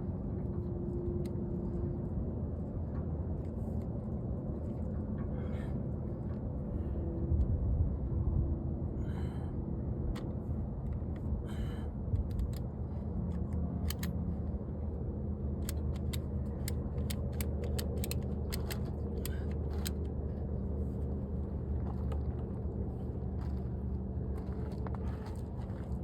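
A motor running steadily with a low hum, with scattered sharp clicks and rattles through the second half.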